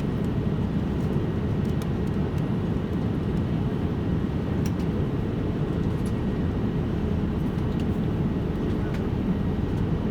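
Steady low drone of an airliner cabin, with engine and airflow noise heard from inside the passenger cabin.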